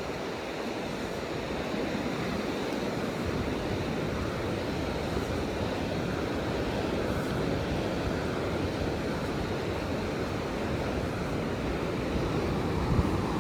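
Ocean surf: a steady wash of breaking waves, swelling a little louder near the end.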